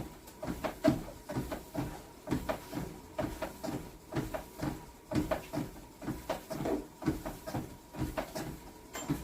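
Quick, uneven knocks and thuds, three or four a second, from body movement and equipment during a home workout.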